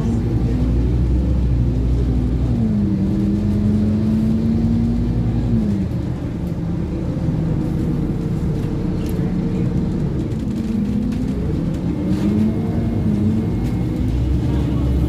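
Scania OmniCity N230UD double-decker bus heard on board, its diesel engine and drivetrain running under way with a steady rumble and a whine whose pitch holds, drops and rises again as the bus changes speed.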